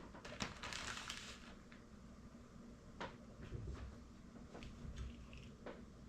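Quiet kitchen handling sounds while vegetables go into a cooking pot: a brief rustle and patter in the first second or so, then a few scattered light knocks.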